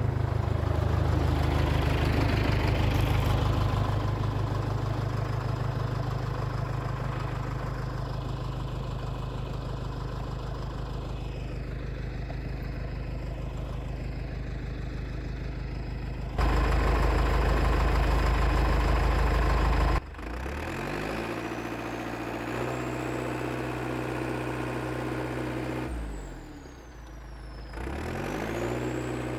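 IH TD8E bulldozer's diesel engine running steadily. Partway through it jumps suddenly louder for a few seconds, then drops back. Near the end the engine speed sags and climbs again.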